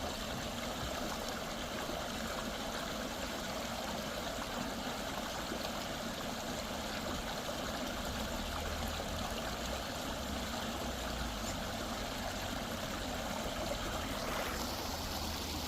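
Shallow stream flowing steadily, a constant rush of running water.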